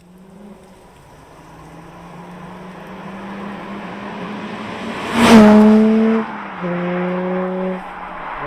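Nissan Stagea 350S's 3.5-litre V6 through a Kakimoto aftermarket exhaust, growing louder as the car approaches. It is loudest as it passes the microphone about five seconds in. It then accelerates away, the exhaust note rising in pitch in short runs broken twice by upshifts of the manual gearbox.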